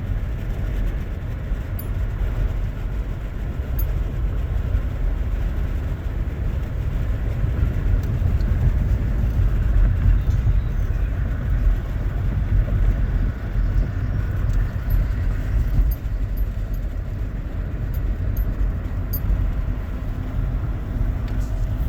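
A car running, heard from inside the cabin: a steady low rumble.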